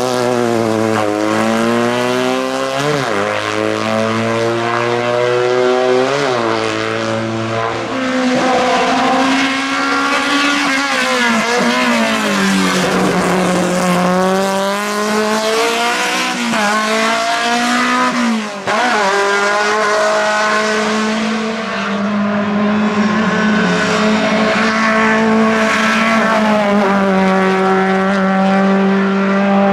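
Historic racing car engine at full throttle on a hillclimb, revs climbing and then dropping sharply with each gear change, several times over, before holding a steadier pitch near the end.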